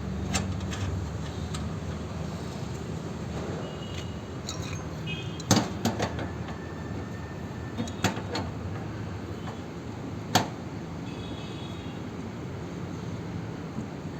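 A few sharp metallic knocks and clicks, with brief high ringing, from hand tools and fittings being handled during air-conditioner copper pipe work. A steady low hum runs underneath.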